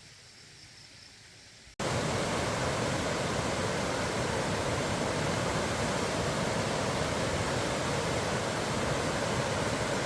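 Faint low hiss, then after an abrupt cut almost two seconds in, steady heavy rain with a dense, even hiss.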